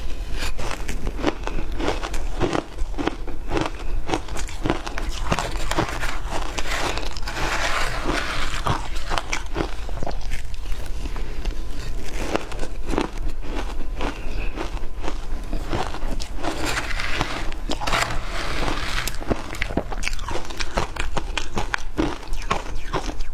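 A person biting and chewing ice: continuous, irregular crunching and crackling with many sharp cracks.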